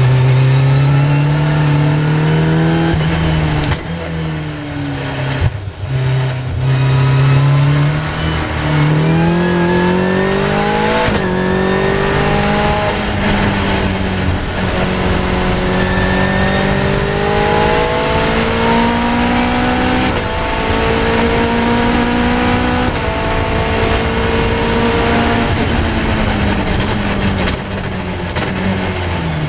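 Caterham R400 engine at full throttle on track, heard from the cockpit. Its note climbs through the revs and drops sharply at each upshift, several times over, then falls in pitch near the end.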